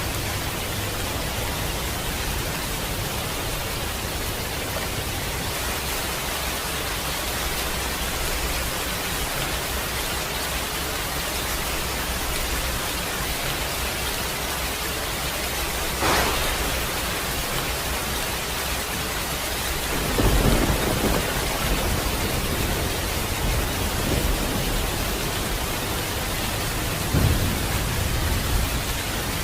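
Steady heavy rain falling, with a sharp thunder crack about halfway through and rolling thunder rumbling in bursts through the last third.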